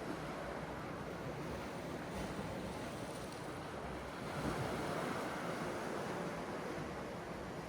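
Sea waves washing on the shore, with a louder surge from about four seconds in.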